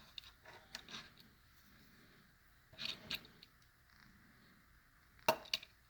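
Handling noise from a small diecast toy car: scattered soft clicks and light rustles, a short cluster about three seconds in and a sharper click a little after five seconds.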